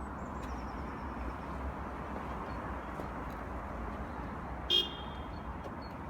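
Steady rumble of distant road traffic, with one short car-horn toot about three-quarters of the way through.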